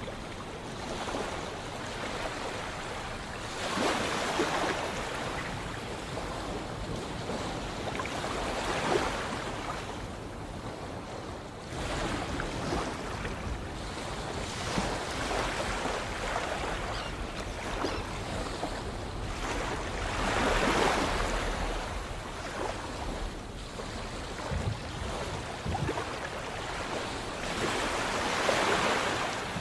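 Sea waves breaking, a steady wash of surf that swells up with each wave about every five to seven seconds.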